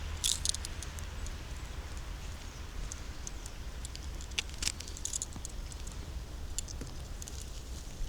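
Footsteps on the forest floor: irregular crackles and snaps of dry leaves and twigs underfoot, with light rustling.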